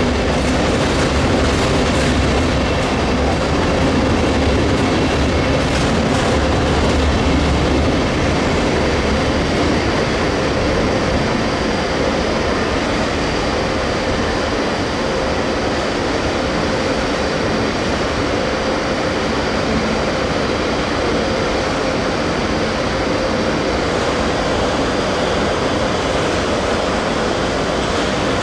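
Railjet passenger train rolling along the platform, a steady loud noise of wheels on rail with some clickety-clack and a faint steady hum. A deeper rumble in the first several seconds eases off after that.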